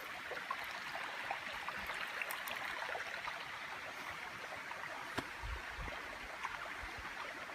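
Steady rush of flowing water from the waterfall's stream, with scattered small clicks and two soft low thumps near the end.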